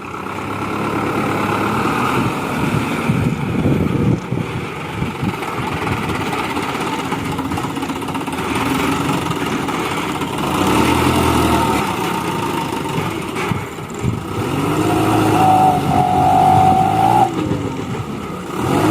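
A vehicle engine running steadily. About three-quarters of the way through, a steady pitched tone comes in and holds for a couple of seconds.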